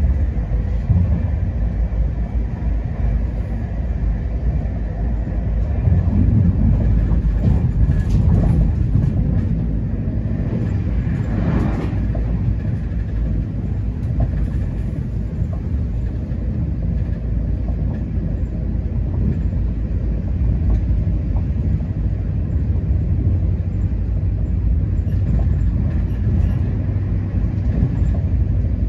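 Steady rumble and wheel noise of a moving passenger train, heard from inside the carriage, with a brief louder rush of noise about twelve seconds in.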